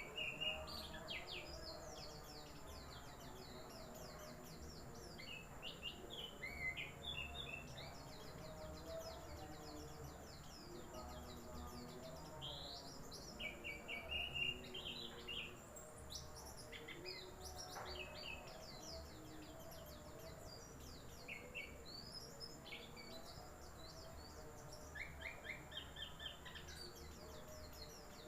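Pleci (a white-eye) singing: a fast, almost continuous twitter of high chirps and short trills, broken by brief pauses.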